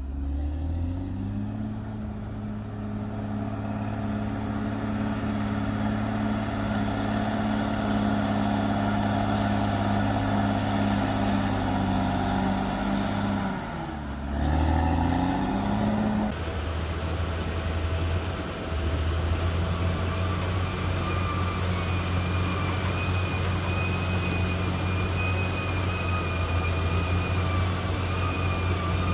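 Bulldozer diesel engine running under load. It revs up in the first second or two, holds steady, dips and climbs again about halfway through, then runs steadily with a thin high whine over it.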